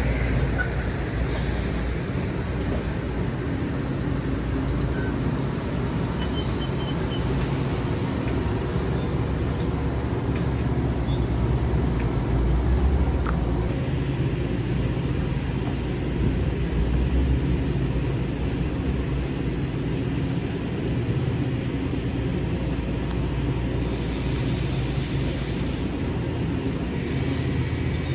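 A passing train's steady, loud rumble of wheels on rail, with no clear breaks over the whole stretch.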